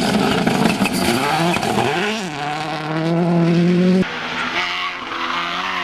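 Rally car engine at high revs: the pitch climbs sharply about two seconds in and holds, over a haze of tyre and road noise. About four seconds in it cuts off abruptly to a lower, wavering engine note.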